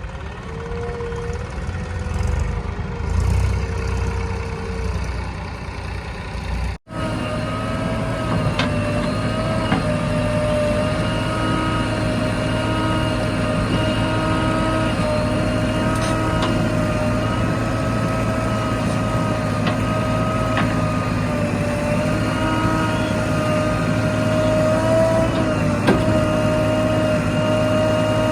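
Diesel engine of heavy earthmoving machinery running steadily with a low hum and a constant whine. The sound changes abruptly at a cut about seven seconds in and then holds steady.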